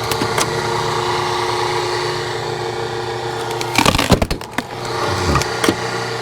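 Small petrol engine running steadily, with a short burst of wood cracking and knocking about four seconds in.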